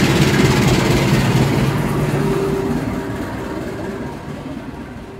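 A train running past on the rails, its rumble loud at first and then fading away steadily as it moves off.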